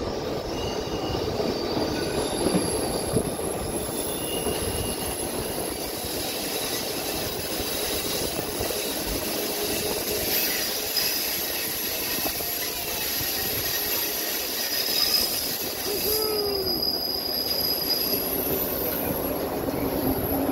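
White Pass & Yukon Route narrow-gauge passenger cars rolling on the rails as two trains pass close side by side: a steady rumble of wheels on track, with thin, high wheel squeal coming and going.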